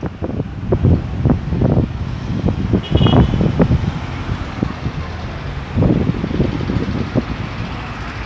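Road traffic going round a busy roundabout: cars and trucks driving past, with wind buffeting the microphone in irregular gusts. There is a brief high squeak about three seconds in.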